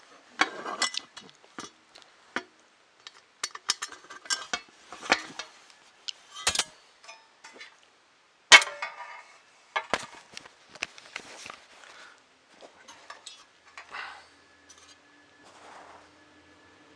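Small metal parts and tools clinking, tapping and rattling on a bench during hand assembly of a 3D printer kit, an irregular run of clicks with the sharpest clink about eight and a half seconds in. Near the end a faint steady hum of a passing vehicle starts to come in.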